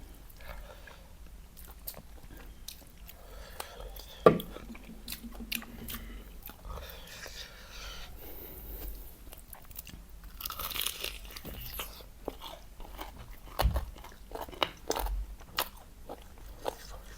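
Close-miked biting, crunching and chewing of crispy fried chicken, in irregular crackles with wet chewing between. The loudest is one sharp crunch about four seconds in, with another run of loud bites later on.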